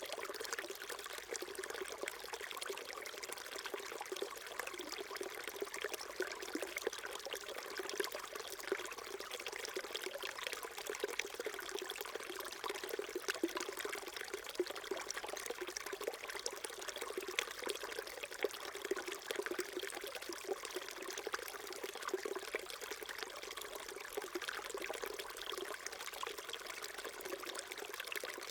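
Small mountain stream flowing and trickling over rocks, a steady babble of water.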